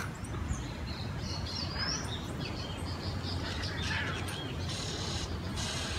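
Birds chirping here and there over a low, steady background rumble.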